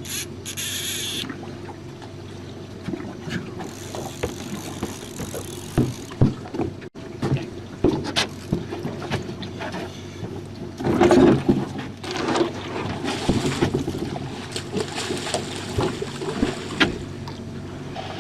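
Small outboard motor on a jon boat running steadily, with scattered knocks and clicks from handling gear on the boat. A brief hiss at the start and louder rumbling stretches partway through.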